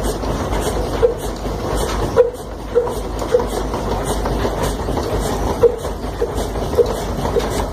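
Old Ruston stationary engine running slowly, a steady low rumble with a regular beat a little under twice a second.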